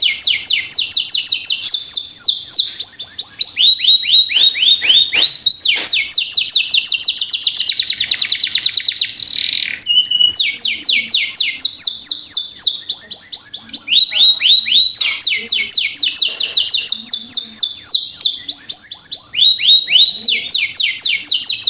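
Canary song in fast trilled phrases: runs of rapid downward-sweeping notes, many per second, alternate with slower, lower trills, with brief breaks between phrases.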